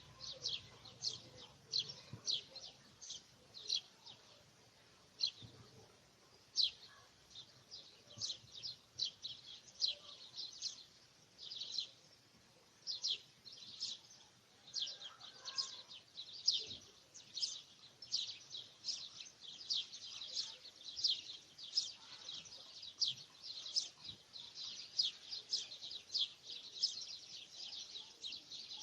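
Small birds chirping: short, sharp, high-pitched chips repeated irregularly, one to three a second, throughout.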